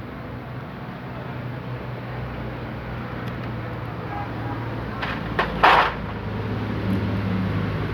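A steady low engine-like hum, with a brief clatter of handled metal parts about five and a half seconds in.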